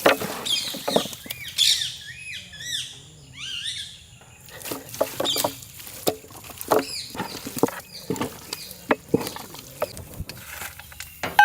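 Small birds chirping in a quick series of short rising-and-falling calls between about one and four seconds in, then scattered clicks and knocks of chicken pieces and utensils being handled in a large cooking pan.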